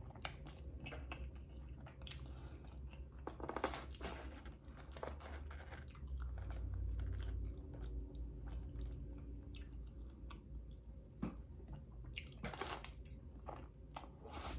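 Close-miked chewing of forkfuls of Wingstop voodoo fries with dip, with scattered short clicks and mouth sounds.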